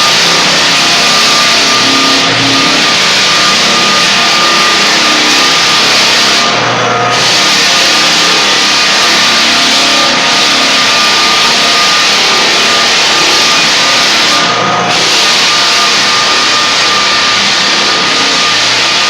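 Floor sanding machine running loudly and steadily on a hardwood floor, a constant high whine over a dense grinding hiss, with brief easings of the hiss about seven and fifteen seconds in.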